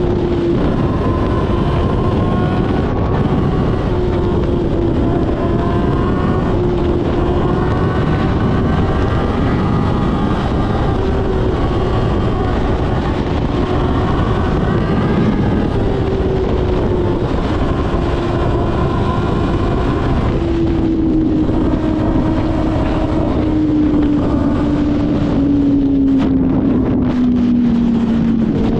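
Kawasaki ZX-6R 636's inline-four engine running under way, with heavy wind noise over it; the engine pitch holds fairly steady, then falls gradually over the last several seconds as the bike slows.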